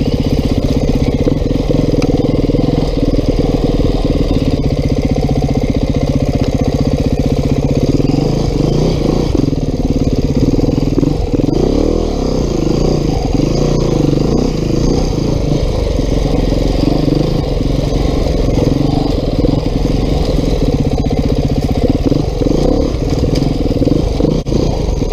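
2019 Beta 390 RR-S single-cylinder four-stroke dirt bike engine running under load, its revs rising and falling repeatedly through the middle as the throttle is worked on tight single track.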